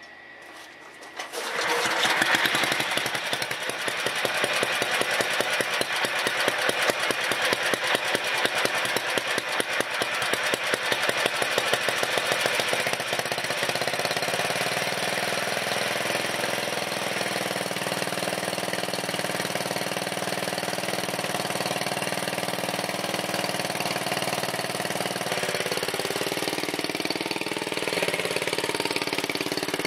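A 7 hp Briggs & Stratton single-cylinder engine on an MTD lawn tractor starts up about a second in and runs with a rapid, even firing beat. After about 13 seconds it settles into a steadier running sound.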